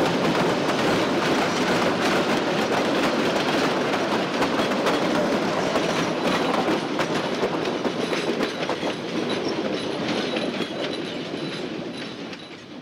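Narrow-gauge train cars rolling past, wheels clicking over the rail joints in a steady clickety-clack, fading away near the end.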